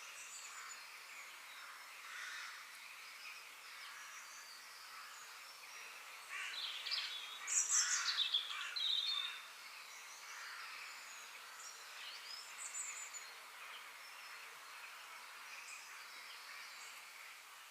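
Several birds chirping and calling over a steady outdoor hiss, with a louder flurry of high calls about halfway through.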